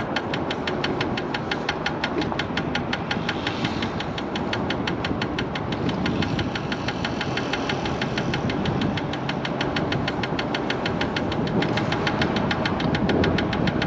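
Electric scooter riding along with a rapid, even knocking from the front wheel, several knocks a second, over wind and road rush. The knock comes from something in the front wheel striking up under the fender.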